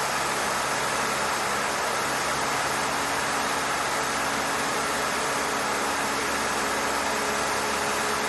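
Cessna 152's four-cylinder Lycoming engine and propeller droning steadily in flight, heard from inside the cockpit along with a constant rush of air, while the aircraft holds slow flight at about 55 knots.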